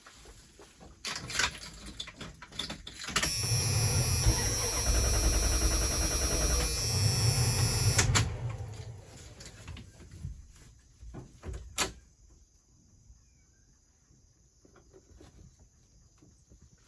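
Car engine being cranked for about five seconds and then stopping, with a sharp click a few seconds later.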